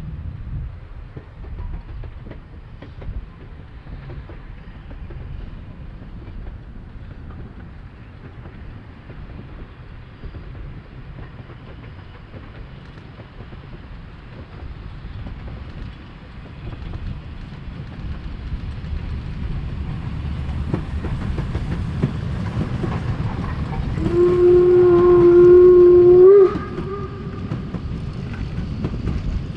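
Narrow-gauge steam locomotive 99 1741-0 drawing nearer, its running noise growing louder. Its steam whistle sounds once, a steady blast of about two and a half seconds near the end, rising slightly in pitch just before it cuts off.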